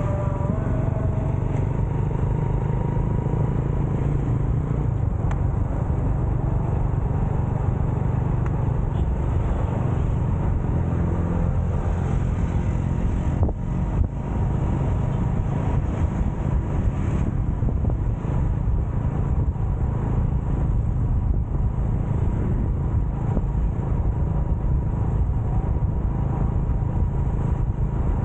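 Motorcycle on the move: steady engine and wind-and-road noise, a continuous low rumble with a brief dip about halfway through.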